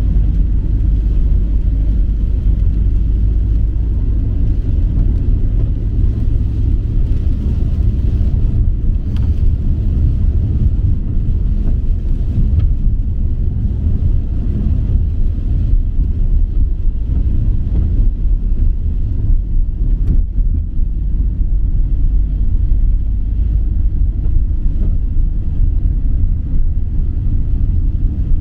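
Steady low rumble of a running motor vehicle, unbroken throughout.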